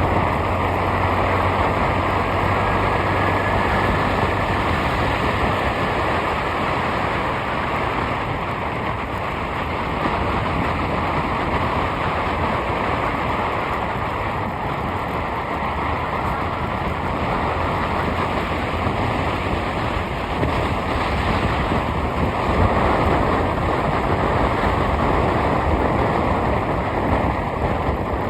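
Vehicle on the move: steady road and wind noise over a low engine hum.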